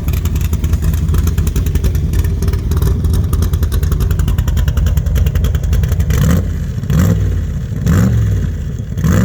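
Shelby 468 cubic-inch V8 idling with a lumpy, uneven beat, then revved in about four quick throttle blips in the last three seconds.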